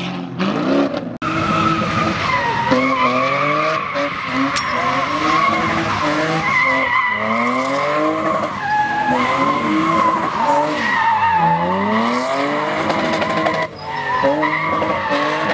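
A car doing a burnout: the engine revs up and down again and again while the spinning rear tyres squeal steadily.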